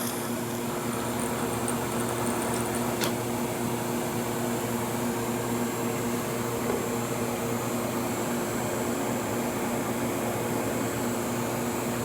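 Steady machine hum, like a running fan or air-conditioning unit, with even tones and a constant hiss. A single faint click about three seconds in.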